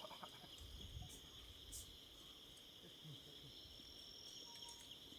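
Faint, steady insect chorus of crickets or cicadas in a forest: one continuous high trill. A thin, faint whistle-like tone comes in near the end.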